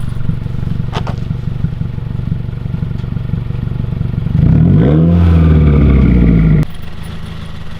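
2018 Subaru WRX's turbocharged flat-four idling through an axle-back muffler-delete exhaust, then revved: a little over four seconds in the pitch climbs and holds high for about two seconds before dropping suddenly back to idle.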